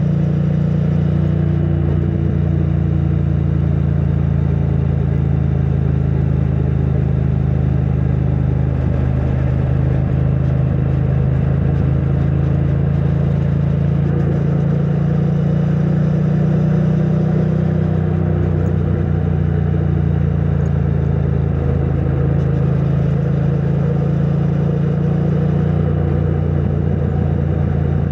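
A 2022 Triumph Bonneville T100's 900 cc parallel-twin engine running through its stock exhaust as the bike is ridden. The note holds steady, rising and falling slightly a few times.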